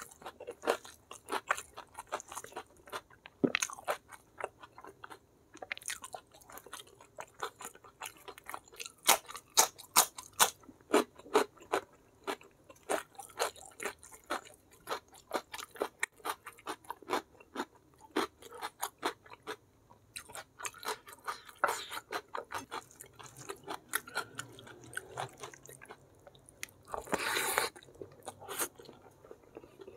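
Close-miked mouth sounds of a person eating: wet chewing and smacking with irregular crunchy clicks, several a second, as beef foot (kikil) is gnawed off the bone along with rice, fried chicken and raw vegetables. A louder rustling noise comes a little before the end.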